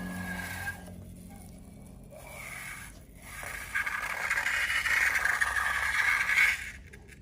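Slime and balloon material being handled, a noisy scraping sound that grows louder about three and a half seconds in and falls away just before the end.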